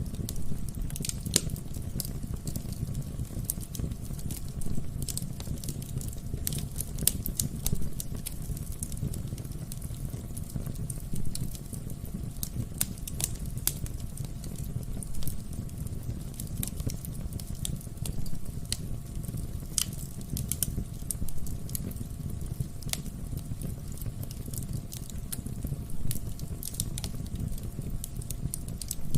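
Wood fire burning in a fireplace: a steady low rumble of the flames with frequent irregular sharp crackles and pops of the burning logs.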